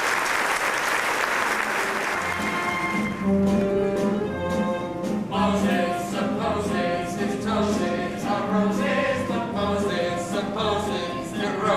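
Audience applause for about the first three seconds, giving way to a theatre orchestra and ensemble singers starting a musical number over a steady, even bass beat.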